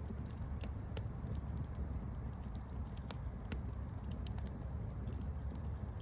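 Wood campfire crackling: scattered sharp snaps and pops, a couple louder ones about a second and three and a half seconds in, over a steady low rumble of the burning fire.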